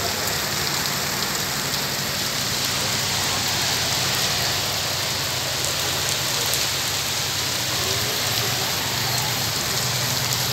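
Steady rain falling on a paved street, an even hiss with no break, over a low steady hum.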